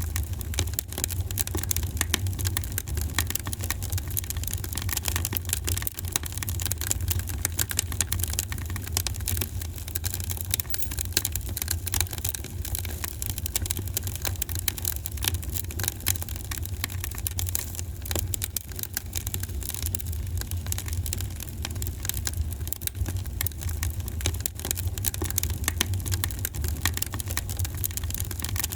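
Wood fire in a fireplace crackling steadily, with many small irregular pops over a constant low rumble of the flames.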